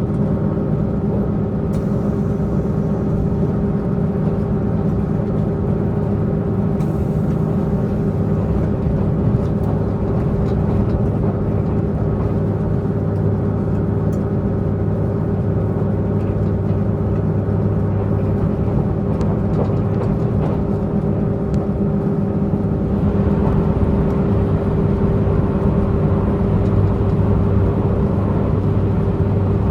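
Diesel multiple-unit express train's diesel engine running steadily under way, several steady tones over the rumble of the moving train, growing a little louder and fuller about two-thirds of the way through.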